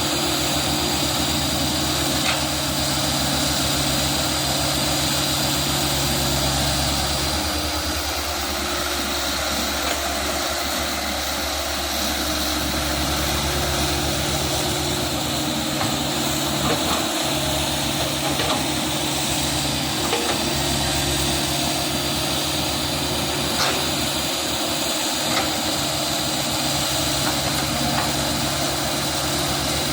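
Komatsu PC100-6 hydraulic excavator's diesel engine running steadily, its low hum easing off for a few seconds about a third of the way in, with a few faint clicks.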